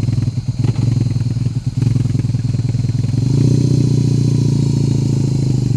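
BMW R18's 1800 cc boxer twin idling through a straight-pipe exhaust with no muffler, just after being started. The idle is uneven at first, then runs louder and fuller from about three seconds in.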